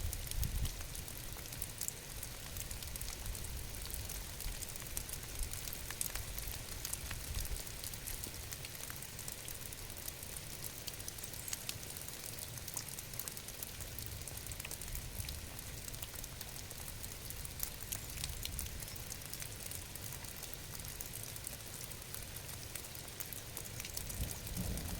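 Steady rain, a dense hiss of countless drops pattering, with a low rumble under it that fades in the first seconds and swells again near the end.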